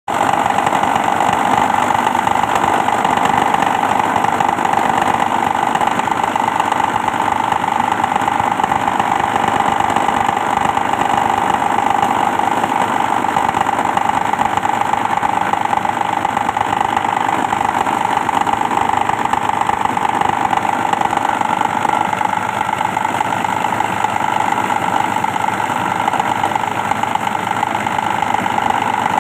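Plastic shredding machine running at a steady speed, a continuous loud mechanical drone with a strong hum around one pitch.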